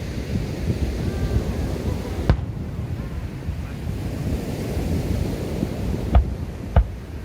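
Fireworks shells bursting: three sharp bangs, one about two seconds in and two close together near the end, over a steady low rumble of wind on the microphone.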